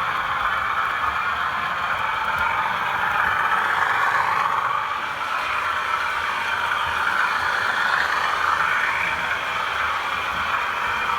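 Two model Class 37 locomotives' DCC sound decoders playing diesel engine sound through their small onboard speakers as the pair run together, a steady engine note that swells and eases slightly.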